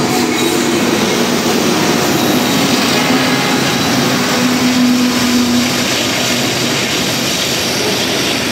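A diesel freight train passing: a steady rumble of locomotive and rail cars with a low engine hum that swells briefly about halfway through.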